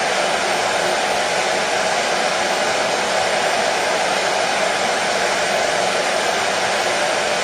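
Hair dryer running steadily: a constant, even rush of fan and airflow noise without change, played as white noise to soothe a colicky baby to sleep.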